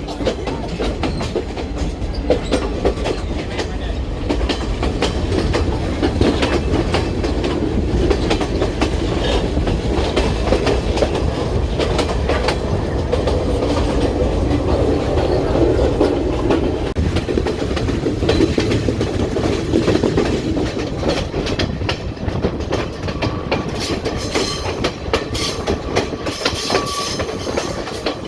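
Passenger train running along the track, a steady rumble with the wheels clacking over rail joints. The rattling turns brighter and busier near the end.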